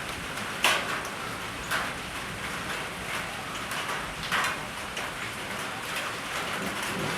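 Steady rain falling, with three brief louder hits: about a second in, near two seconds, and past four seconds.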